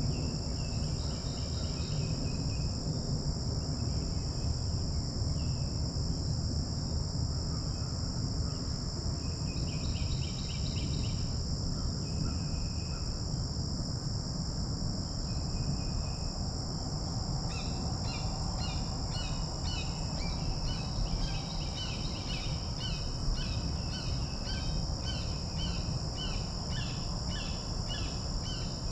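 Outdoor ambience of a steady high insect trill with songbirds chirping in quick repeated notes, sparse at first and much busier from about two-thirds of the way through, over a low rumble of breeze on the microphone.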